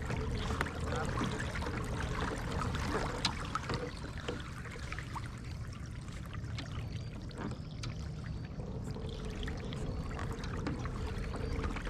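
Water trickling and dripping around a kayak, with small splashes and ticks, over a steady low rumble.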